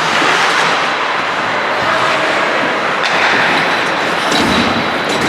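Ice hockey play on a rink: a steady scraping hiss of skates on the ice, with a few sharp knocks about three, four and five seconds in.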